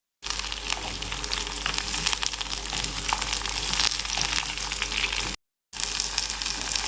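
Long green beans, onion and spices sizzling and crackling in hot oil in a clay pot as they stir-fry. The sound cuts out briefly twice, near the start and about five and a half seconds in.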